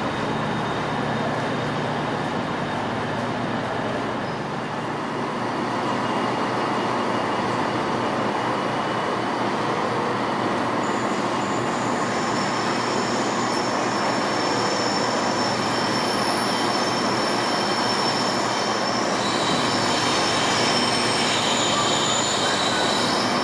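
A train moving through a station, with a steady low engine drone under it; thin high-pitched wheel squeal sets in about halfway and grows stronger near the end.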